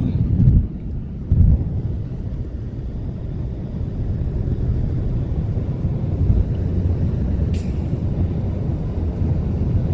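Road noise of a car on the move, heard from inside the cabin: a steady low rumble, with two brief louder bumps in the first second and a half and a short click later on.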